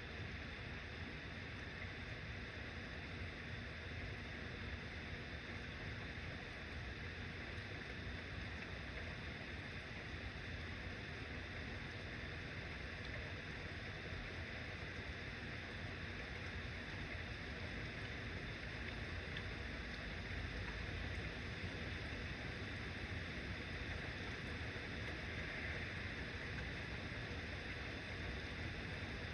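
Steady rain falling, an even hiss with a low rumble underneath that holds at one level throughout.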